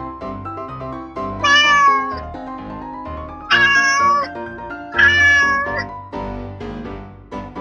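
Three cat meows, each under a second long and about a second and a half apart, laid over background keyboard music.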